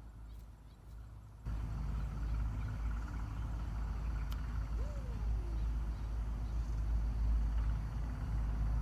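Steady low rumble that starts abruptly about a second and a half in, with a single short call that rises and then falls away about five seconds in.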